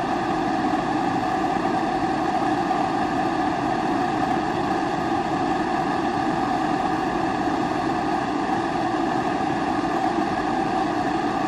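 Pressurized kerosene stove (Primus-type) burning steadily, the burner giving a constant rushing noise with a steady low tone in it.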